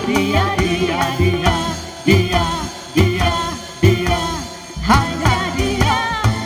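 Live dangdut band music: a wavering, ornamented melody line over a steady drum beat that lands about once a second.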